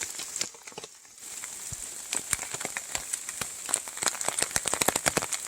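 Rain falling, with many sharp irregular drop ticks over a light hiss. There is a brief lull about half a second in, then the drops come thicker toward the end.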